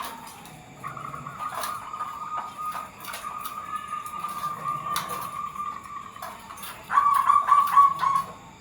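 Zebra doves (perkutut) calling: a long, wavering note held for several seconds, then a louder run of quick pulsed coos near the end, with scattered sharp clicks.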